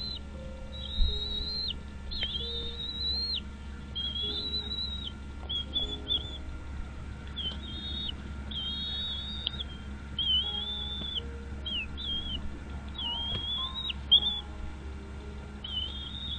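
A bird calling over and over in high, thin whistles, each call under a second or so long and slightly wavering in pitch, with short faint low notes underneath.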